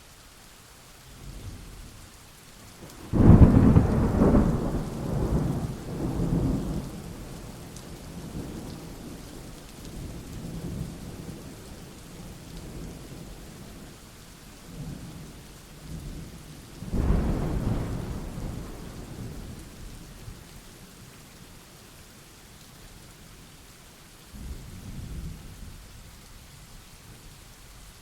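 Thunderstorm recording: steady rain hiss under rolling thunder. A loud crack of thunder breaks about three seconds in and rumbles on for several seconds, a second clap rolls in a little past the middle, and a weaker rumble comes near the end.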